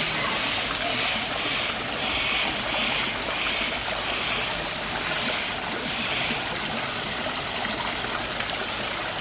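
Small fountain and waterfall splashing and trickling steadily.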